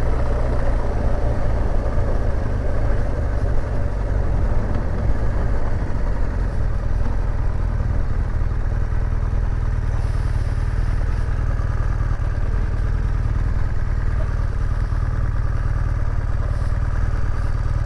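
BMW R1200GS motorcycle's flat-twin boxer engine running steadily while riding at an even pace, with a steady low rumble.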